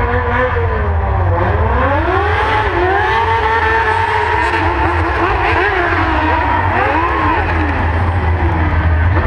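Motorcycle engine revving up and down, its pitch rising and falling several times, over a steady low rumble.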